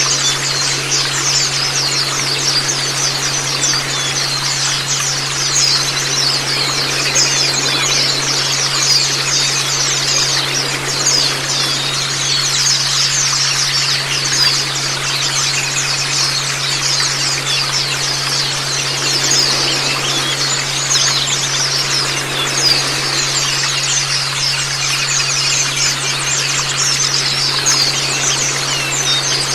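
White-eyes (Zosterops) singing a fast, unbroken high-pitched twittering over running water, with a steady low hum underneath.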